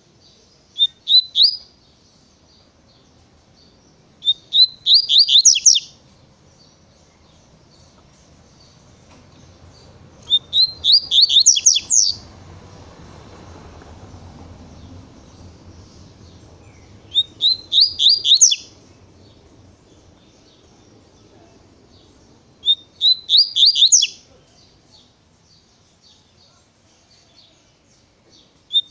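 Double-collared seedeater (coleiro) singing the 'tui tui' song type: short, fast phrases of quick sweeping high notes, repeated about every five to six seconds.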